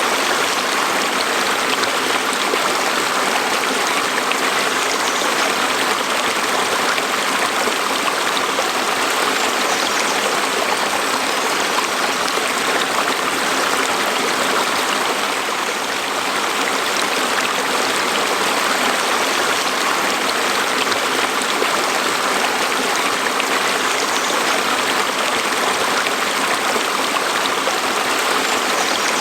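A stream of water flowing steadily over rocks, a constant rushing and babbling with no change in level.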